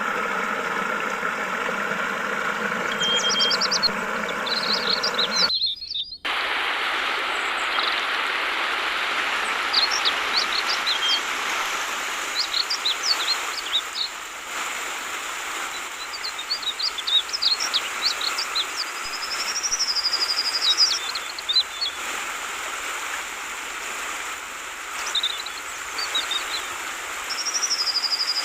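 Yellow-vented bulbuls (trucukan) chirping in short, quick phrases over the steady rush of flowing water. For the first six seconds a steady mechanical hum lies under the birds. The audio then drops out briefly and returns with only the water and the birds.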